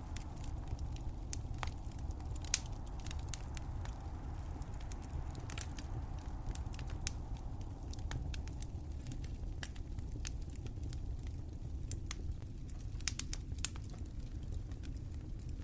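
Wood fire crackling: irregular sharp pops and snaps, one louder pop a few seconds in, over a steady low rumble.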